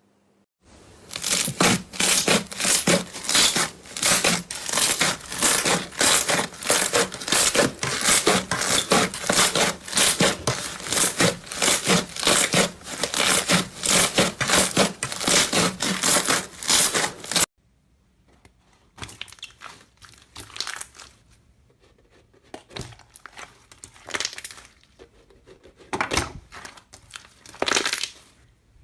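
Slime being squeezed and stretched by hand, making rapid, loud crackling and popping, several crackles a second. About 17 seconds in it cuts off suddenly and gives way to quieter, scattered squishes and pops.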